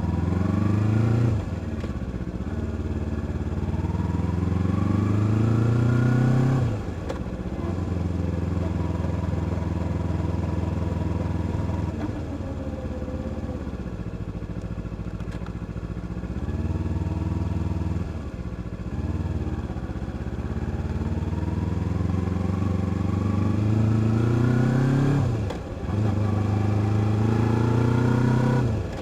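Motorcycle engine under way, its note climbing steadily and then dropping sharply several times, as the rider accelerates and changes gear.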